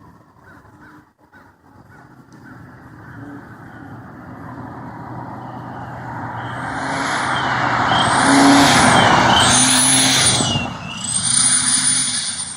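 A 4-cylinder Mazda 626 driving past, its engine growing louder as it approaches, with an exhaust-mounted turbo-whistle simulator giving a high whistle that rises and falls four times from about halfway through.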